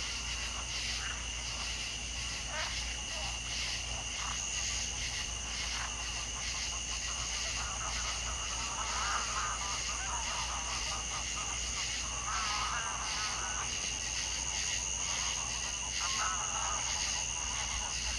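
Wild African soundscape: a steady, high insect trilling, with several bursts of rapid, chattering animal calls partway through and near the end.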